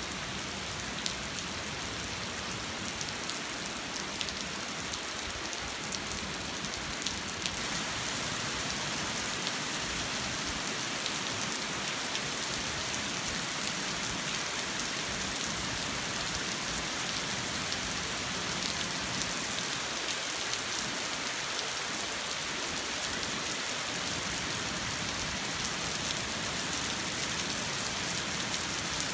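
Steady rain pattering on a street, with single drop ticks standing out; it grows a little louder about a quarter of the way in.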